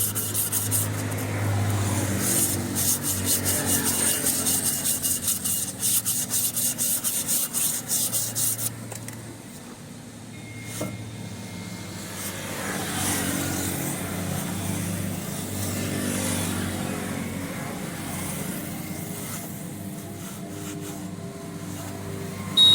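Rapid, regular rubbing strokes of hand work on metal parts during a wheel-bearing job for about the first nine seconds. Then the strokes stop and a quieter steady low hum remains.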